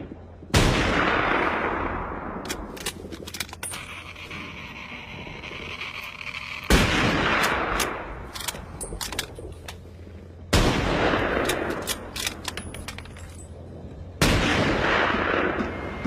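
Four loud bangs, each dying away over a second or two, with scattered small clicks between them.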